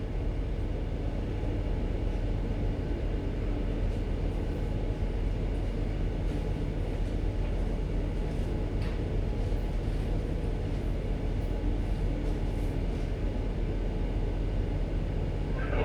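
Steady low rumble and constant hum of a ship's engines and machinery, running evenly while the vessel moves slowly during berthing.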